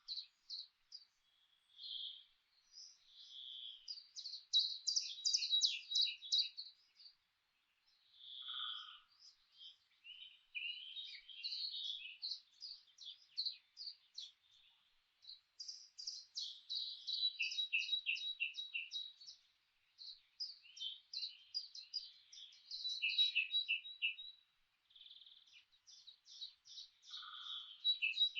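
Several songbirds chirping and singing in bursts of rapid, high chirps and trills, with short pauses between phrases. A single lower call sounds twice, about 9 seconds in and near the end.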